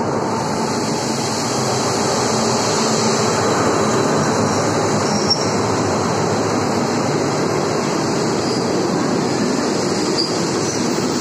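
Passenger train pulling into the station: an Alsthom diesel-electric locomotive and its coaches rolling past along the platform, a steady rumble of wheels on the rails, loudest a few seconds in.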